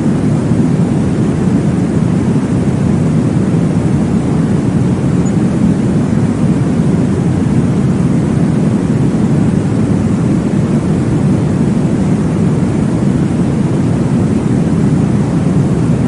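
Steady, muffled whooshing noise of a recreated womb sound, deep and heavy in the bass with little treble, unchanging throughout.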